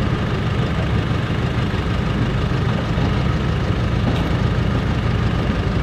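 Four-wheel-drive engine running steadily at low revs, an even, deep drone with no change in pitch.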